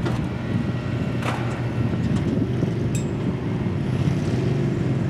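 Engine of a competition pulling garden tractor or mini rod running steadily at high revs, with a couple of sharp clicks.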